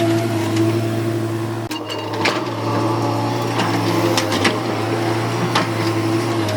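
Hyundai 210W wheeled excavator's diesel engine running at a steady hum, with a brief dip about a second and a half in and a scatter of sharp knocks and clanks over the next few seconds.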